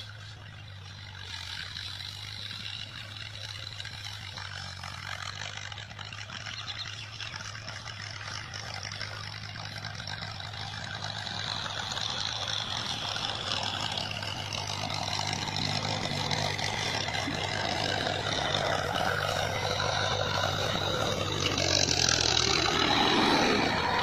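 Tractor engine running steadily, getting gradually louder as it works or draws nearer, loudest near the end.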